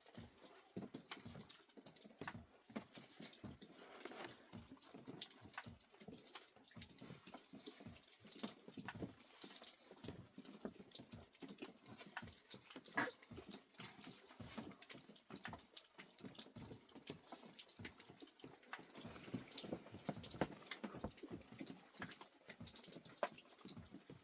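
Faint, irregular patter of rain dripping, with many small taps and drops falling unevenly.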